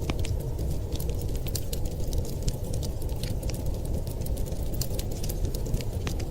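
Crackling fireplace fire: frequent small, sharp pops and snaps at irregular intervals over a steady low rumble.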